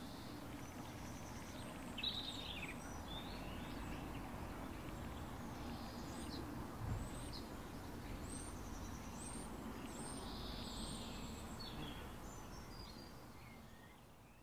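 Small birds chirping and calling, with a quick run of short high chirps about two-thirds of the way through, over a steady low outdoor background noise that fades out near the end.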